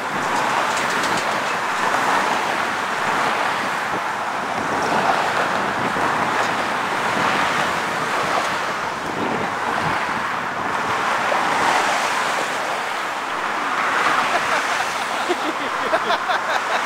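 Road traffic: cars passing one after another at about 25 to 45 mph, their tyre and engine noise swelling and fading every few seconds as each one goes by.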